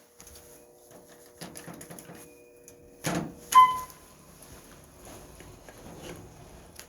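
Lift in motion: a steady hum with rattling and knocking from the shaft, a loud clunk about three seconds in, then a short electronic beep.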